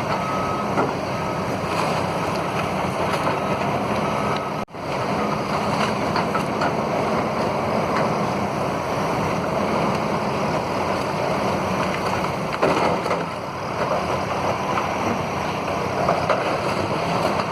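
Heavy demolition machinery running steadily. A vehicle's reversing alarm beeps at the start, then stops about a second and a half in.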